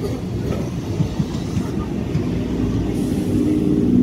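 Electric multiple unit (EMU) suburban local train running past a station platform: a continuous rumble of wheels on the rails. A steady low hum joins about halfway through.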